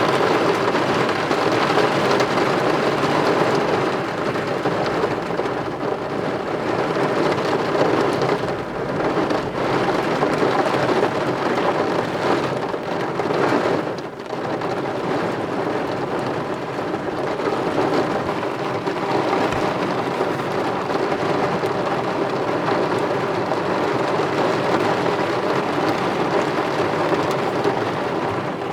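Heavy thunderstorm rain pouring down in a dense, steady hiss, easing briefly about fourteen seconds in.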